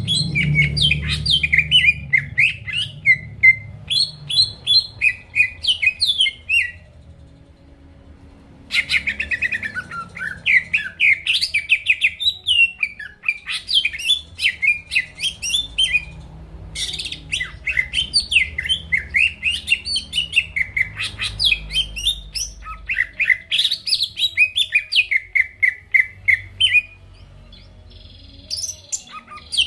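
Green leafbird (cucak ijo) singing a fast, varied run of chirps and whistled notes in long bursts. The song breaks off for a second or two about seven seconds in and again near the end.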